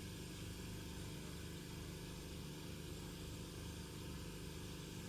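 Steady low hum with an even hiss over it, unchanging throughout, with no distinct event.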